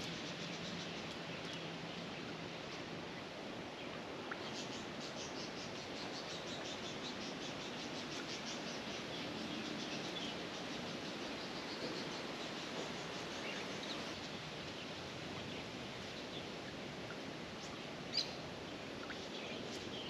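Quiet outdoor background noise with scattered small bird chirps and, for a few seconds in the middle, a quick even run of high ticks; one sharp click near the end.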